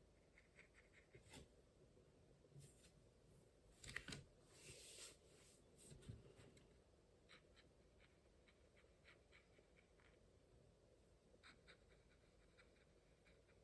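Near silence, with faint taps and soft scratching of a paintbrush on watercolour paper and a louder spell of brushing about four to five seconds in.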